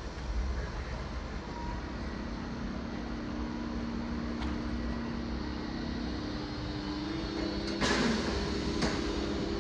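Train in a station: a steady low rumble, with a droning hum that comes in about three seconds in, and a sudden short hiss about a second before the end.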